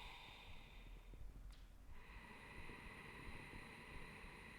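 Near silence with faint, slow breathing: two long breaths with a short break of about a second between them.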